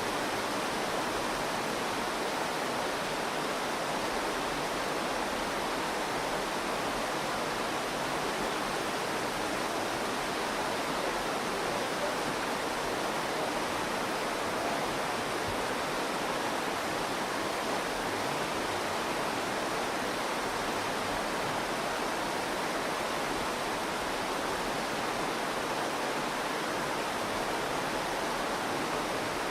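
The Virgin River flowing: a steady, even rush of running water.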